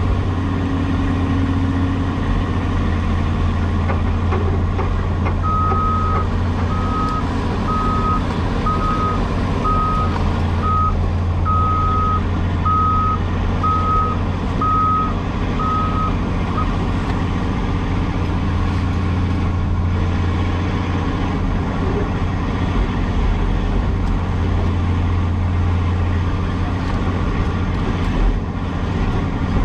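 Cat 336E excavator's diesel engine running steadily under work. From about five seconds in, a back-up alarm beeps about once a second for around eleven seconds, then stops.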